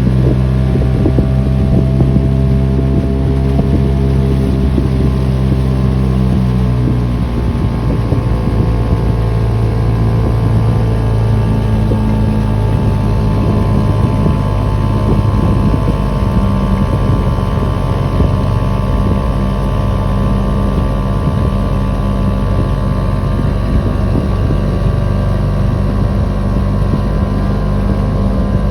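Small 2 hp Yamaha two-stroke outboard motor running steadily, pushing a small boat. Its engine note changes about seven seconds in.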